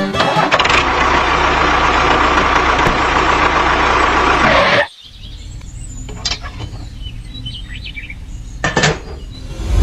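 Small diesel engine running steadily and loud. Just under halfway through it cuts to a quieter steady low hum with a few bird chirps.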